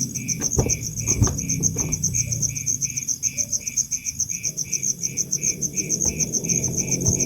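Insects chirping in a steady rhythm: a high, fast chirp and a lower one pulsing a couple of times a second, with a few faint knocks in the first two seconds.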